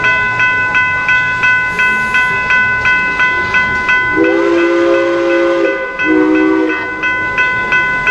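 A bell rings steadily with about two to three strikes a second, typical of a railroad grade-crossing signal. About four seconds in, a passing train's multi-note chime horn sounds one long blast and then a short one.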